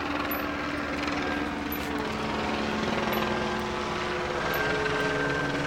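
Police helicopter circling overhead, its rotor and engine running steadily with a fast low beat.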